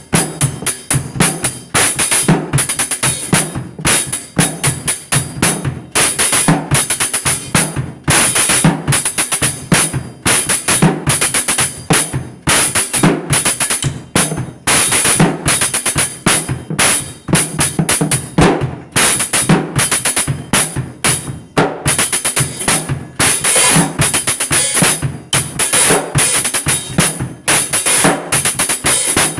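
Drum kit played fast: dense runs of strikes with cymbals ringing over them, broken by short pauses every second or two.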